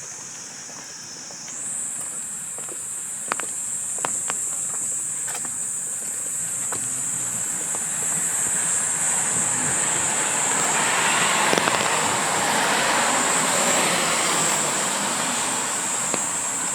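A steady high-pitched insect chorus shrills from the street trees throughout. About halfway through, the hiss of a vehicle passing on the street builds, peaks and fades, and a few sharp clicks come in the first half.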